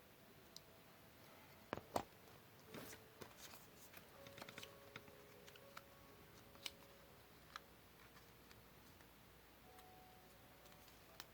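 Paper and small tools handled during papercraft: scattered light clicks and taps, with two sharper knocks about two seconds in and a short scrape just after.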